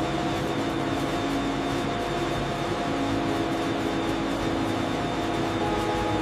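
Steady drone of factory machinery: an even rushing noise with constant hum tones.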